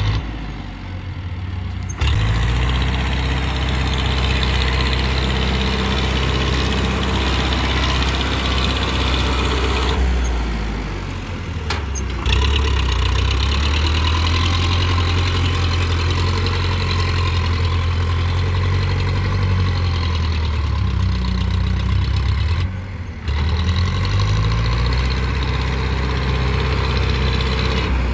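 Powertrac Euro 55 Next tractor's diesel engine running hard, held at high revs in long stretches. The throttle is let off briefly three times, near the start, about a third of the way in and late on, with the engine jumping back up each time, as the tractor strains to get out of deep mud.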